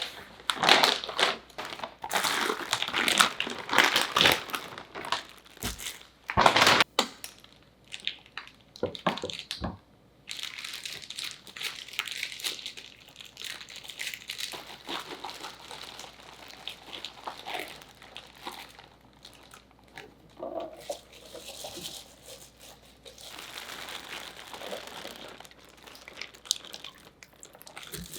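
Kitchen prep handling: irregular crinkling and rustling, as of plastic packaging being handled, with a few sharp knocks.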